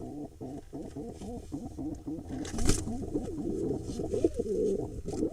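Pigeons cooing in courtship: continuous low, wavering coos. A short burst of noise about two and a half seconds in is the loudest moment.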